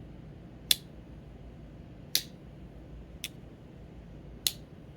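Stainless steel blades of a ten-blade pocket knife snapping shut into the handle one after another: four sharp metallic clicks, a second or so apart.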